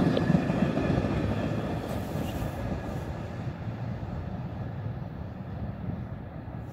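Diesel-hauled MARC commuter train rumbling along the track, its sound fading steadily as it moves away.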